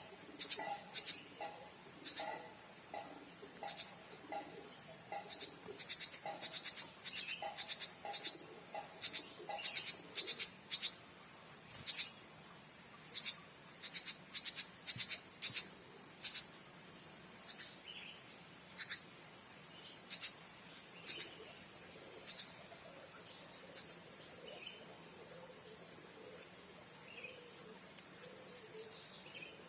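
Short, sharp high chirps of blue-crowned hanging parrots (serindit), rapid and frequent through the first half and only now and then later, over a steady high drone of cicadas or crickets. In the first third a lower note repeats about twice a second.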